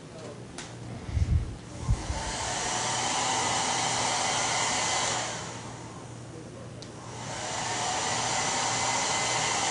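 Hand-held blow dryer blowing in two bursts of about three seconds each, with a few low handling thumps just before the first.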